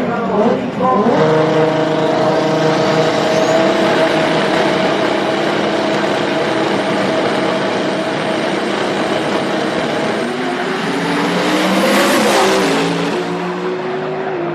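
Toyota 2JZ straight-six car engine running at high revs: the pitch climbs quickly at the start, holds steady, then the car passes close by about 12 seconds in and the pitch drops.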